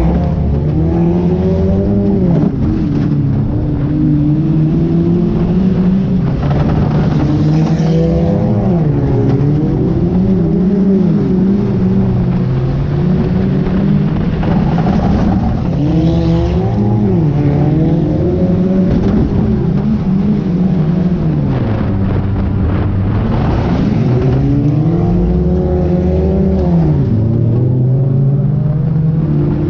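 Junk race car's engine revving hard and easing off, again and again, its pitch climbing and dropping every few seconds as the throttle is opened and lifted.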